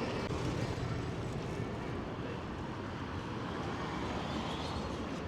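Steady city street ambience dominated by traffic noise from passing vehicles.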